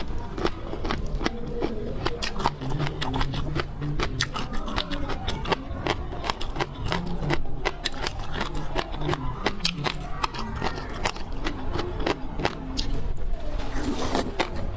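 Close-miked eating sounds of seafood being chewed: a dense, irregular run of sharp wet clicks and crackles with lower mouth noises underneath.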